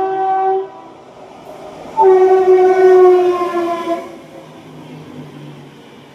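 Locomotive horn of an express train running at full speed: one blast ending shortly in, then a longer blast about two seconds in whose pitch sags toward its end. The train's running rumble follows.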